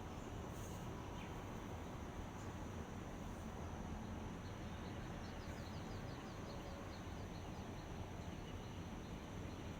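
Outdoor dawn ambience: a steady high insect drone over a low, even background rumble, with a short run of rapid high chirps about five seconds in.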